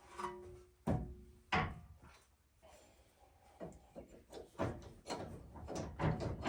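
Metal tools and steering parts clanking: a short metallic ring at the start, two sharp knocks about a second in, then a run of lighter clanks and rattles.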